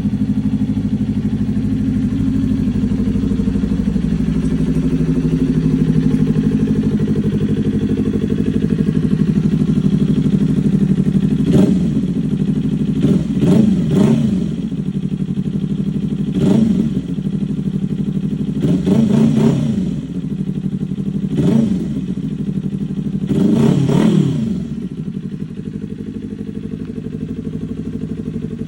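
Kawasaki Ninja 400's parallel-twin engine idling through its exhaust, then blipped about seven times in quick throttle revs that rise and fall sharply, before settling back to idle.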